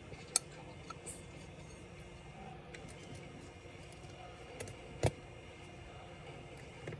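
Sharp clicks and fainter ticks of small hard parts and tools being handled while taking apart a Dell Latitude 3301 laptop, over a low steady background hum. The two loudest clicks come just after the start and about five seconds in.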